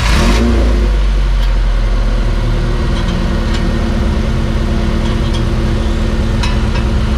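Honda Civic VTi engine starting and then idling steadily and loudly through new headers, with the catalytic converter replaced by a straight pipe and the stock muffler still on.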